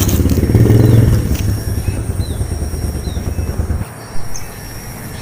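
A small engine running close by with a fast, pulsing low rumble, loudest about a second in, then fading and dropping away near the end. A few faint short high chirps sound over it.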